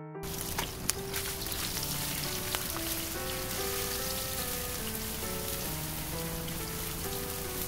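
Tofu pieces dusted with starch frying in shallow oil in a nonstick pan: a steady sizzle with scattered crackles and a few sharper pops, starting suddenly.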